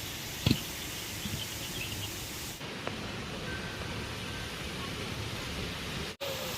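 Waterfall rushing steadily, with a single sharp knock about half a second in.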